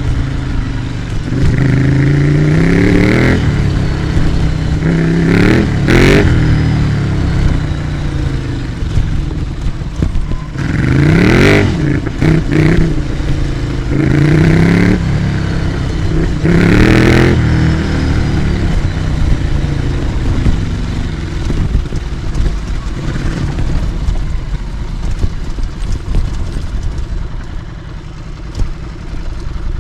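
Ducati Scrambler Icon's air-cooled 803 cc L-twin through an HP Corse GP07 exhaust with the baffle in, accelerating several times as the bike is ridden, the pitch climbing with each burst of throttle. Near the end it settles into steadier, lighter running.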